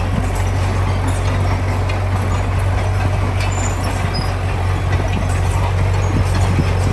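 Heavy construction machine's diesel engine running steadily with a constant low drone, with scattered light clicks and rattles over it.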